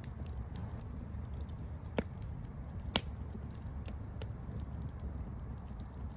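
Campfire burning with a steady low rumble and scattered small crackles, and two sharp louder pops about two and three seconds in.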